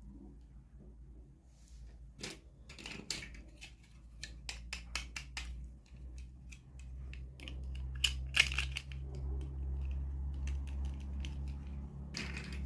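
Toy packaging being handled and opened: a string of crinkles, rustles and sharp clicks, with a low steady hum coming in about halfway through.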